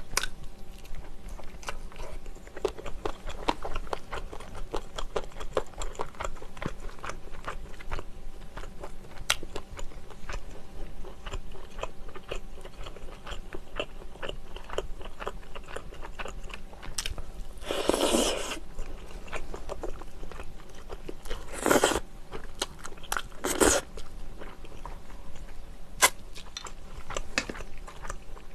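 Close-miked chewing and biting of soy-braised chicken: steady wet mouth clicks and crunches, with a few louder noisy bursts about eighteen, twenty-two and twenty-four seconds in.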